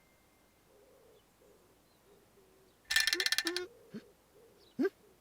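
Children's-cartoon sound effects: faint low hooting tones, a short bright jingling burst about three seconds in, then two quick rising whistle glides.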